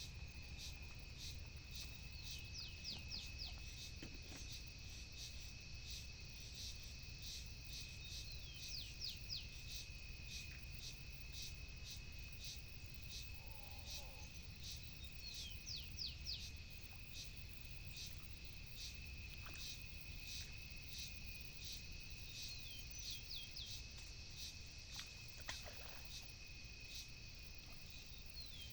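Faint open-air ambience. A bird calls about five times, each a quick run of falling notes, over a steady high insect drone with regular ticking and a low rumble of wind.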